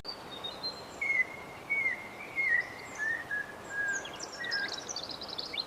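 Wild birds singing over a steady background hiss: a run of whistled notes that step gradually lower, with higher chirps and a quick flurry of high twittering near the end.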